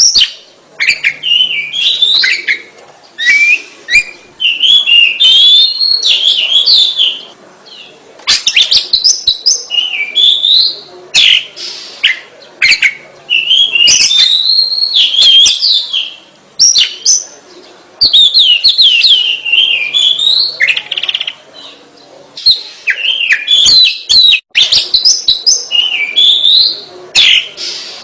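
Oriental magpie-robin singing vigorously, in full song. Runs of quick, varied whistled phrases with fast rising and falling notes and some sharp clicky notes, broken by short pauses every few seconds.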